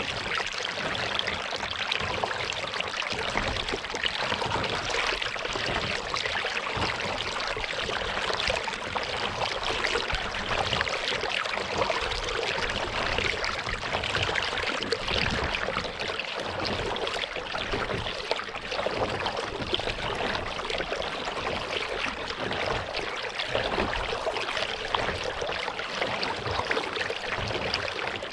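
Water trickling and splashing around a kayak on a lake, a steady close-up fizz of moving water with an irregular low rumble underneath.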